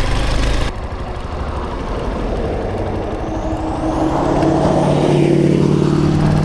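Dirt bike engine running under way, its pitch rising about three seconds in and then holding steady.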